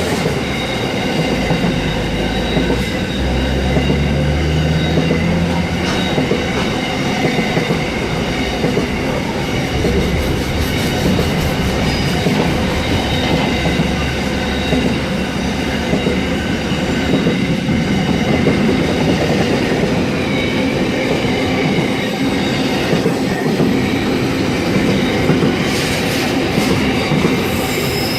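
Eight-car V-set double-deck electric train (sets V36 and V28) moving along the platform, with a steady rumble from the wheels and running gear and several steady high-pitched whines over it.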